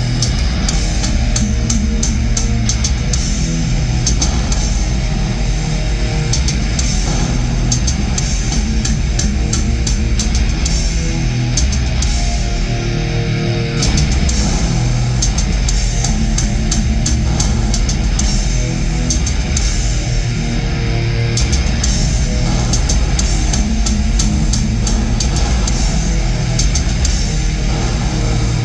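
Heavy metal band playing live in an arena: loud distorted electric guitar, bass and drums with frequent cymbal crashes, getting a little louder about halfway through.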